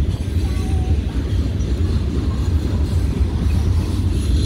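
A train passing, a steady low rumble.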